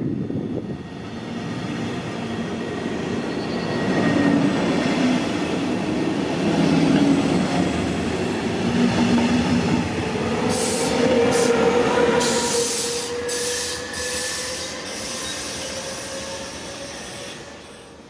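A train running past on the line, a continuous rumble and rattle of wheels on rail. In the second half there are bursts of high wheel squeal and hiss. It fades away sharply at the end.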